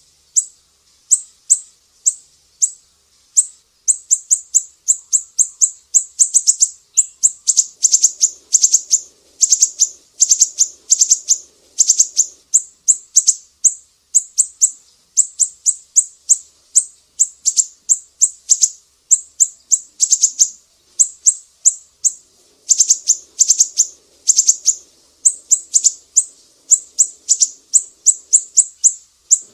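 Sumatran siri-siri bird singing a long, unbroken series of sharp, high-pitched notes, several a second, speeding into denser runs at times: the sharp 'besetan' strokes that keepers prize in this song.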